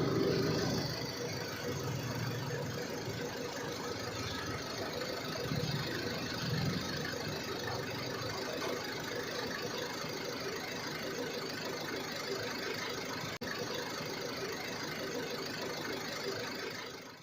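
A small motor running steadily, with a noisy, engine-like sound and a brief break about thirteen seconds in.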